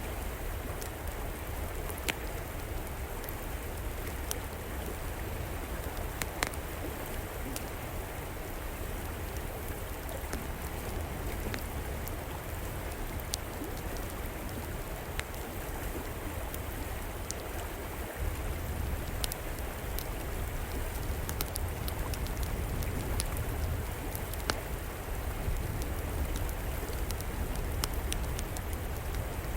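River water flowing steadily, with scattered sharp pops and crackles from a fire burning in an outdoor fireplace. The water grows a little louder a little past the middle.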